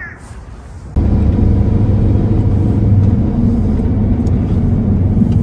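Motor vehicle engine running with a steady low rumble, cutting in abruptly about a second in.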